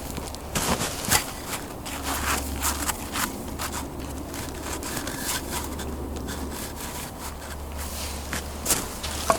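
Firewood being worked by hand: wood scraping and rubbing, with irregular light knocks.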